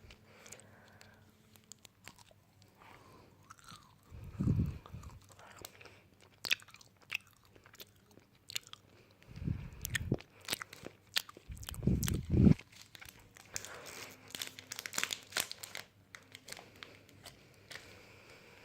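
Close-up crunchy biting and chewing of crisp food: scattered sharp crunches with a denser run of crackling about three-quarters of the way through, and a few short deep thuds between them.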